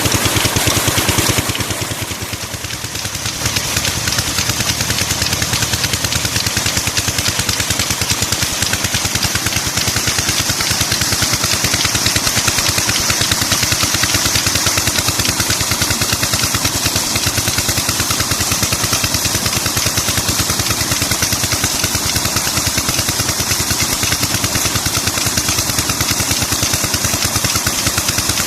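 16 hp diesel engine running steadily, driving a tube-well water pump, with a fast, even beat of exhaust pulses. The sound dips briefly about two seconds in, then carries on unchanged.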